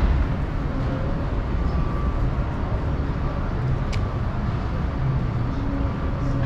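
Steady low rumble of vehicle noise, with a faint sharp click about four seconds in.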